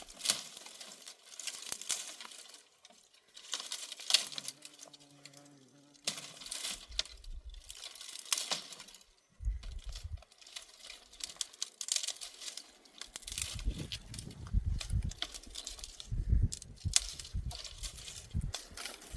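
Dry grass and brush crackling and tearing as it is pulled and gathered by hand, in an uneven run of sharp crackles. Low rumbling buffets join in during the second half.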